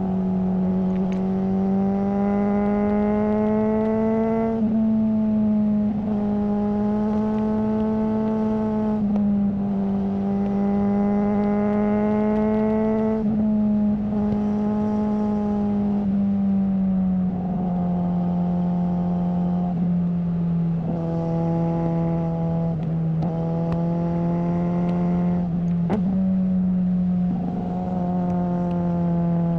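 Suzuki GSR600 inline-four running through a GPR Ghost aftermarket exhaust, held at steady mid revs. The note climbs slowly over a few seconds and then steps down abruptly, over and over, as at gear changes.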